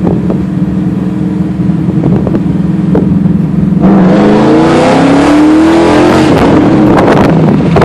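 2014 Ford Mustang GT's 5.0 V8, on a cammed tune and breathing through longtube headers, an H-pipe and SLP Loudmouth axle-backs, heard from inside the cabin. It runs steadily at low revs, then about four seconds in the driver gets on the throttle and the revs climb, drop briefly near six seconds and climb again.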